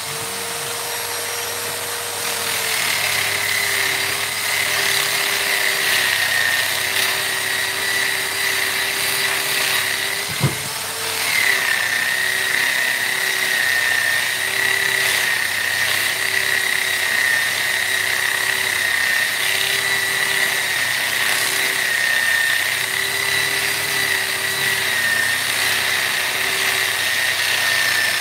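High-speed rotary power tool running with a steady whine. Its pitch sags and recovers over and over as it is pressed into wood. There is a single sharp knock about ten seconds in, where the tool briefly stops and spins back up.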